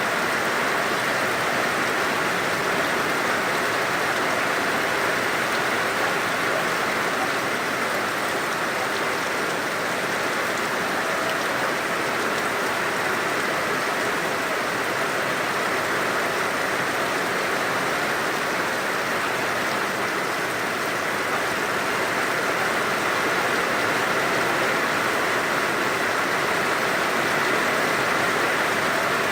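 Heavy rain pouring down and splashing on surfaces, a steady dense hiss.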